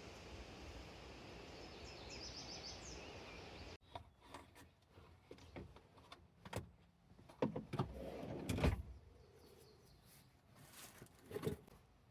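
Outdoor breeze with a few short bird chirps, then after a sudden cut, a series of knocks and clicks from things being handled, loudest a little past the middle.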